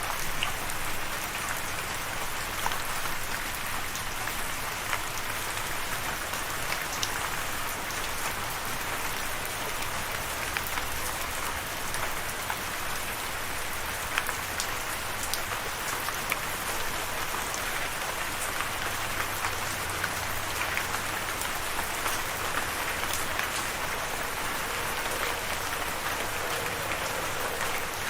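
Steady rain falling, with many separate drops ticking sharply against the hiss.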